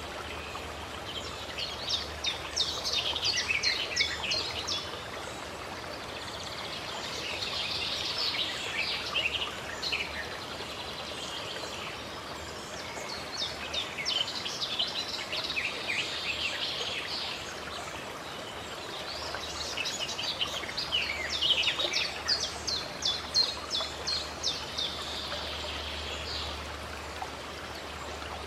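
Several birds singing in bouts of quick chirps and trills every few seconds, over a steady rush of running water.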